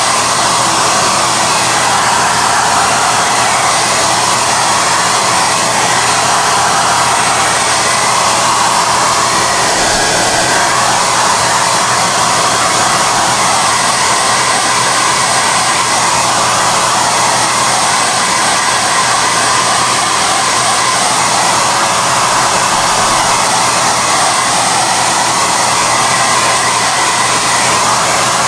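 High-airflow hair dryer (SOUNATE XM-H008/YX-HM008-G) running continuously, a loud steady rush of air whose tone wavers slightly from moment to moment.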